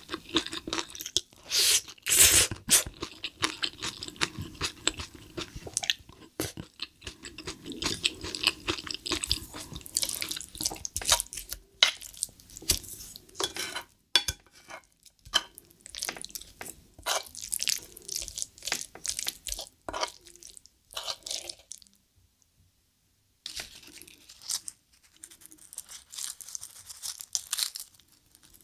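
Close-miked eating sounds: wet chewing and mouth sounds of spicy stir-fried cuttlefish with rice, with sticky squelching as a wooden spoon mixes rice into the sauce on the plate. A brief pause a little after the two-thirds mark, then crisp crunching as a roasted-seaweed wrap is bitten near the end.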